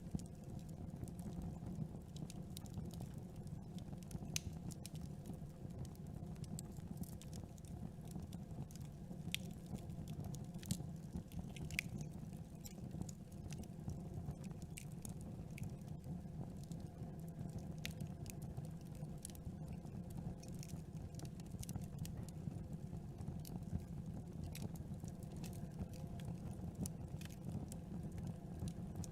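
Campfire burning: wood crackling with irregular sharp pops over a steady low rumble.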